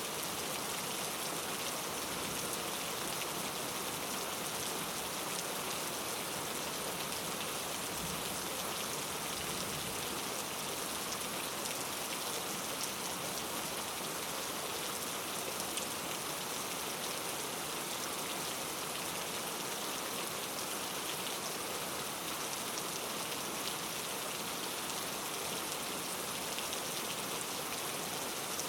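Steady rainfall pattering on a surface, many fine drops, without change in strength.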